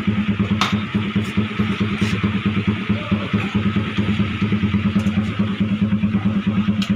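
Motorcycle engine idling through a shop-made aftermarket muffler: a steady, evenly pulsing exhaust note, with a few brief sharp cracks over it.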